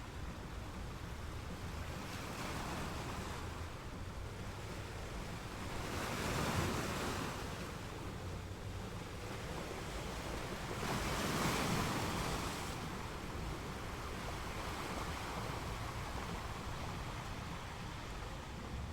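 Ocean waves washing on a shore, a steady wash with two waves breaking louder, at about six seconds in and again at about eleven to twelve seconds.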